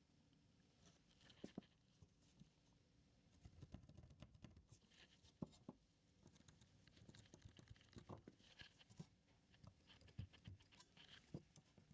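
Near silence with faint scattered clicks, taps and light rustling from handling things at close range.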